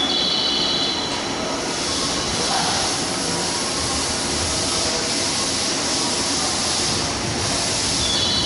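Train noise at a station platform: a steady rushing hiss, with a cluster of high thin whining tones in the first second that returns near the end.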